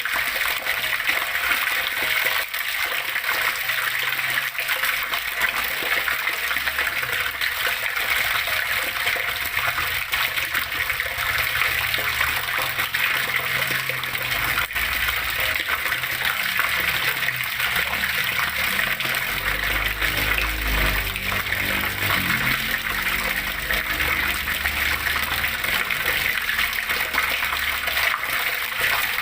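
Flowing water rushing and splashing steadily. A low rumble swells and fades in the middle.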